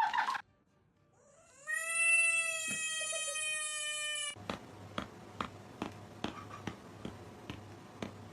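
A cat gives one long, drawn-out yowl at a steady pitch, lasting about three seconds. After it come soft, regular clicks about twice a second over a low hum.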